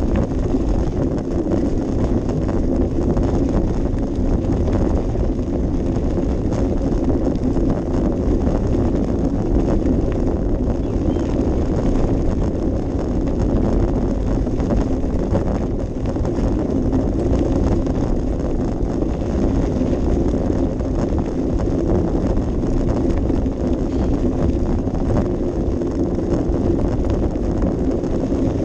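Wind buffeting a GoPro Session action camera's small microphone, giving a steady, heavy rumble with a constant hum over it.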